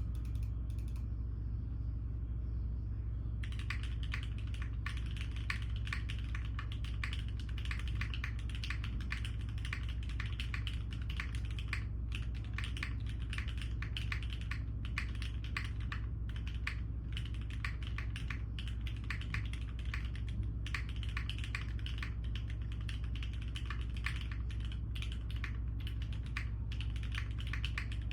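Typing on a mechanical keyboard, an aluminium-cased Kohaku fitted with Nixie switches: a fast, continuous stream of keystrokes starting about three seconds in, over a steady low hum.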